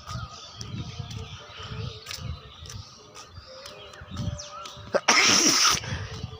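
Outdoor ambience with faint bird chirps and low rumbling wind on the microphone, broken about five seconds in by a loud rushing, hissing noise lasting under a second.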